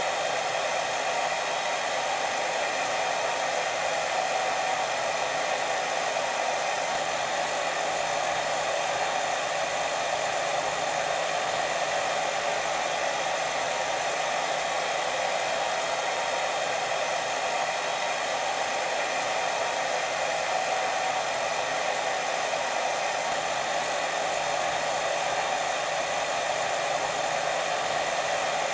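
Steady, unbroken white-noise hiss for lulling a baby to sleep, strongest in the middle range, with no pauses or changes.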